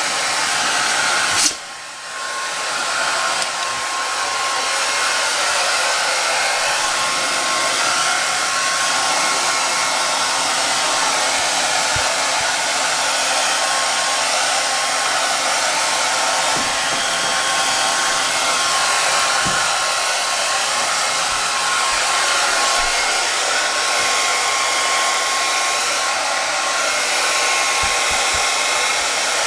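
Handheld hair dryer blowing steadily, with a whine under the rush of air, drying a dog's coat. About a second and a half in there is a click and the noise briefly drops before it picks back up.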